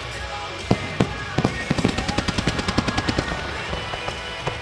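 Fireworks going off: a couple of single sharp bangs, then a rapid string of crackling reports at about ten a second that thins out near the end. Loud show music plays underneath.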